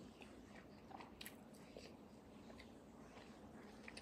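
Faint chewing with scattered small, irregular mouth clicks: a person eating soup with rice.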